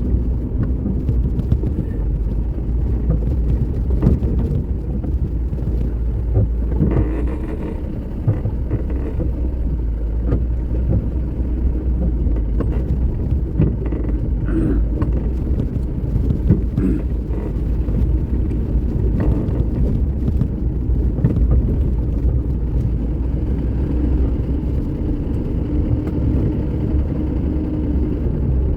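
A car driving over a rain-damaged road: a steady low rumble of engine and tyres, with frequent knocks and rattles from the jolting.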